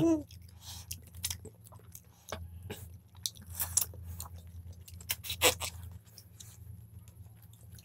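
Two people chewing and eating chicken biryani by hand, with irregular soft clicks from mouths and fingers, over a steady low hum.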